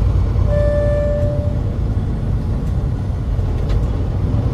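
Semi truck running with a steady low rumble, and a single steady beep lasting about a second, starting about half a second in.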